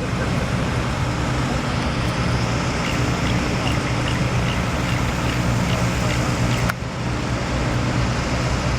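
Steady low engine hum over road traffic noise, with a brief dip about seven seconds in.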